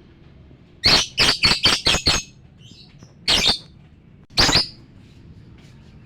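Lovebird calling: a quick run of about six loud, shrill calls, then two single calls a second or so apart.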